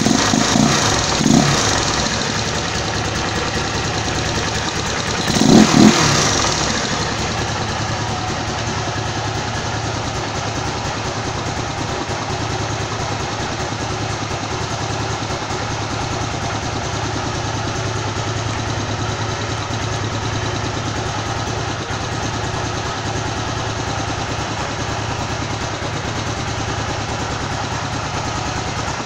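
A single-cylinder Honda CG engine, bored out to 262 cc, idling smoothly and steadily at about 1500 rpm. It is briefly revved a little twice in the first two seconds, and once more strongly about six seconds in, before settling back to an even idle.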